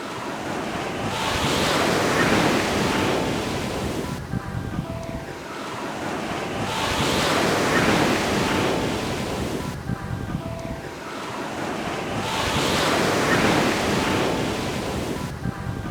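Waves breaking and washing up a beach: three surges about six seconds apart, each swelling to a peak and then fading. Faint brief high notes sound in the lulls between surges.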